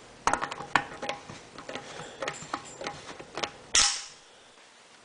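Harley fuel tank filler cap being worked by hand: a run of small irregular clicks, then one sharper snap a little before the end.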